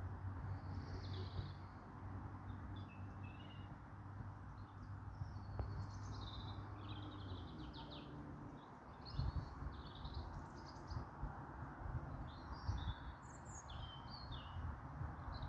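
Birds chirping and singing in short phrases over steady outdoor background noise, with a low steady hum that stops a little before halfway.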